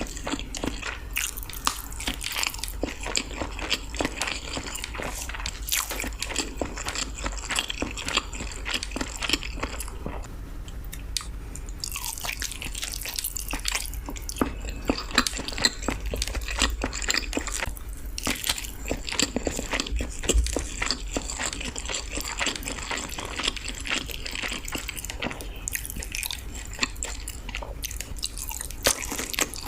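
Close-miked eating sounds: steady, irregular wet chewing, biting and lip smacks of someone eating balado eggs in chili sauce.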